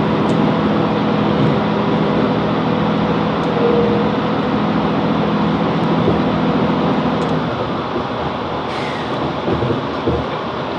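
Class 165 Networker Turbo diesel multiple unit in motion, its underfloor diesel engine running with a steady note. About seven and a half seconds in the engine note drops away, leaving wheel and track rumble with a few low thumps near the end.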